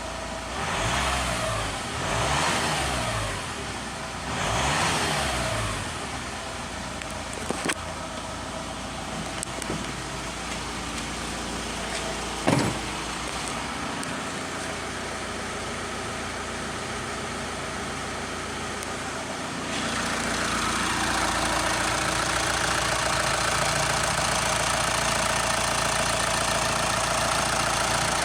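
VW Transporter engine blipped three times in quick succession, each rev rising and falling, then settling to a steady idle with a few clicks and one sharp knock about 12 seconds in. About 20 seconds in it steps up to a louder, steady run that holds to the end.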